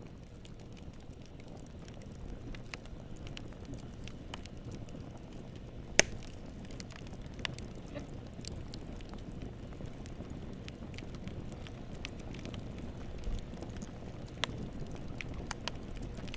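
Wood fire burning in a fireplace: a steady low rumble of flames with scattered crackles and sharp pops, one loud pop about six seconds in.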